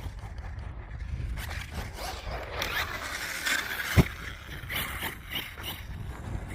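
Team Corally Kagama RC stunt truck driving on loose dirt, its tyres scrabbling and spraying dirt in surges as they struggle for grip, with one sharp knock about four seconds in.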